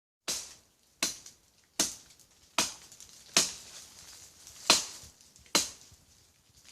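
Cutlass (machete) blade chopping into a tree, seven sharp strikes at roughly one a second, each dying away quickly.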